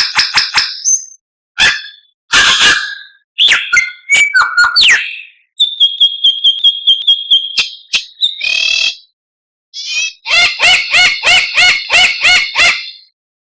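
White-rumped shama (murai batu) song in short, varied phrases: fast runs of repeated chipping notes, clear whistles and a sharp upward-sweeping note, split by abrupt silent gaps, as in an edited song-tutor recording.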